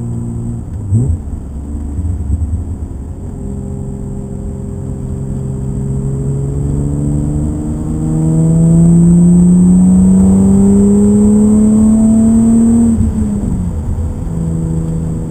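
BMW car engine heard from inside the cabin on a track lap. There is a quick blip of revs about a second in, then a long pull in one gear with the engine note rising steadily and getting louder from about eight seconds in. The revs drop at a lift and gear change near thirteen seconds.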